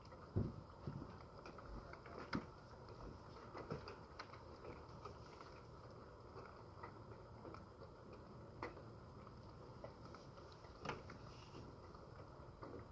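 Light rain during a thunderstorm: a faint steady hiss with irregular drips tapping, a few louder taps scattered through, no thunder.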